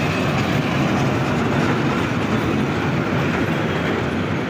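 Diesel-hauled passenger train passing close by: the locomotive goes past and then its coaches, with a steady, loud rumble of engine and wheels on the rails.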